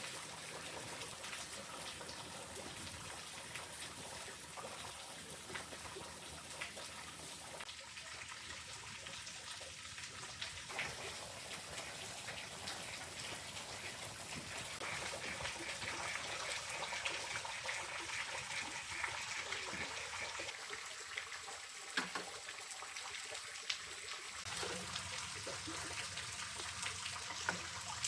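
Water trickling and splashing, a steady noise with scattered small clicks that changes character abruptly a few times.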